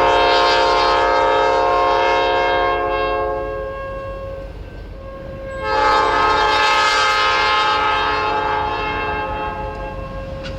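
Diesel locomotive's multi-chime air horn sounding two long blasts, the second starting about six seconds in, with a low rumble of the train underneath.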